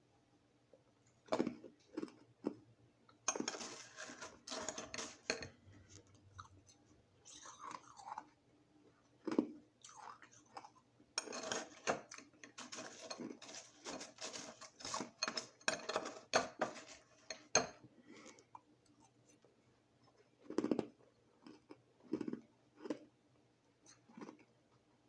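Crushed ice being chewed and crunched in the mouth: two long runs of rapid crunching, with single crunches and pauses between.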